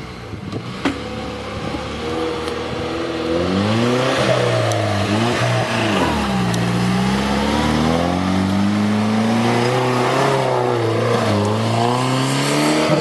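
Off-road 4x4's engine revving, its pitch climbing and dropping several times and getting louder about three seconds in. A single sharp knock about a second in.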